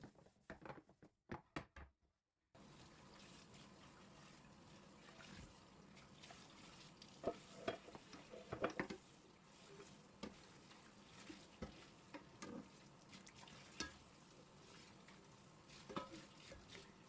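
Faint kitchen work sounds: a steady hiss, beginning after a brief silent break about two seconds in, with scattered clinks and knocks of utensils and dishes.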